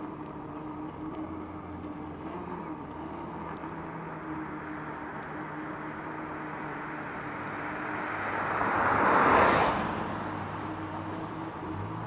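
A vehicle passes by, its noise swelling to a peak about nine seconds in and then fading, over a steady low hum.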